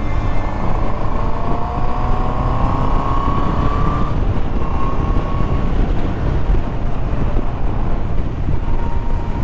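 Honda CB650R's inline-four engine pulling hard in fifth gear, its note rising steadily for about the first four seconds, then holding, under heavy wind rush on the microphone.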